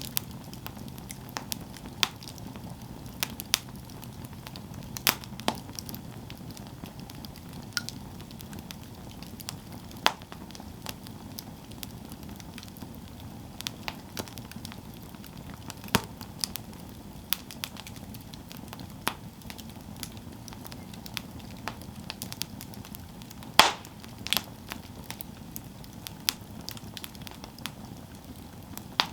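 Campfire burning, crackling with scattered sharp pops over a low steady rush of flame; the loudest pops come about two-thirds of the way through.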